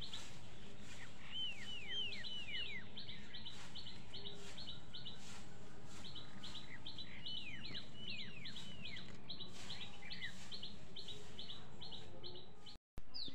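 Songbirds singing: a steady series of short, high chirps at about four a second, joined twice by quick runs of three or four falling whistled notes.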